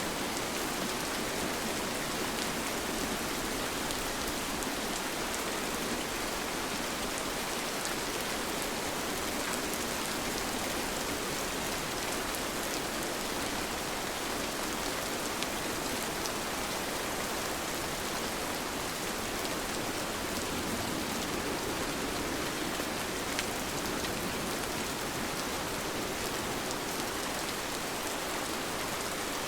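Steady rain falling, an even hiss with faint pattering of drops.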